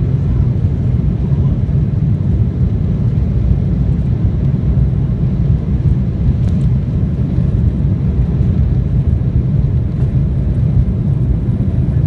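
Jet engine and airflow noise inside the cabin of an Embraer E-170 during take-off: a loud, steady low rumble from its twin General Electric CF34 turbofans.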